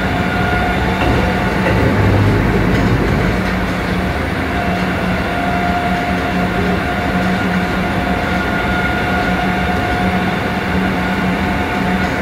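Kintetsu 7000 series electric train with Mitsubishi GTO-VVVF traction equipment running at steady speed, heard from inside the car: a constant rumble of wheels on rail with a steady hum that comes and goes.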